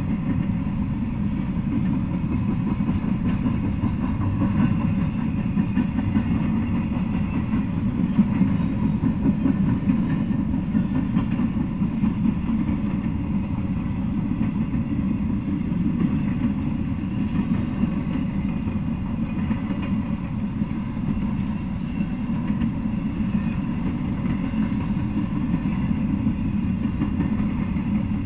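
Freight train cars (intermodal well cars and gondolas) rolling past: a steady low rumble of steel wheels on the rails that holds at the same level throughout.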